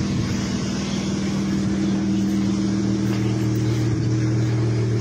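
A car engine idling steadily, a low even hum that holds one pitch.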